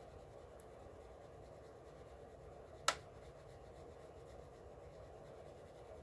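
Coloured pencil shading and blending on paper, a faint steady scratching, with one sharp click about three seconds in.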